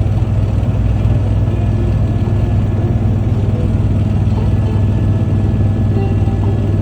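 Helicopter engine and rotor drone heard from inside the passenger cabin: a steady, loud low hum with fainter steady tones above it.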